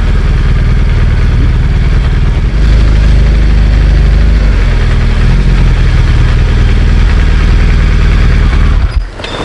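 BMW R1200GS Adventure's boxer twin engine running, heard close from the helmet. It gets louder about two and a half seconds in and drops off abruptly near the end.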